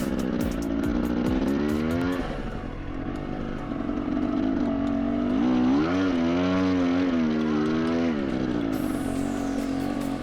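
Husqvarna TE250i's single-cylinder two-stroke engine under way, the revs climbing and dropping as the throttle is worked: a short rise near two seconds, then a longer rise that wavers from about five and a half seconds before dropping back around eight seconds.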